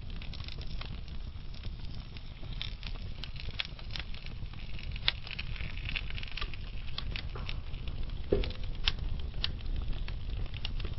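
Burning logs crackling: scattered small pops and snaps over a low, steady rush of flame, with one louder pop about eight seconds in.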